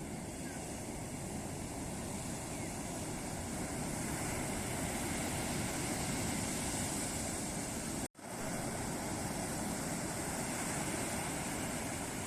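Ocean surf washing steadily onto a beach. The sound cuts out abruptly for a split second about eight seconds in, then resumes.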